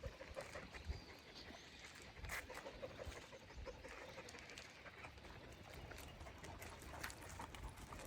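Faint sounds of dogs moving about and panting, with scattered small clicks and crackles of steps on the ground.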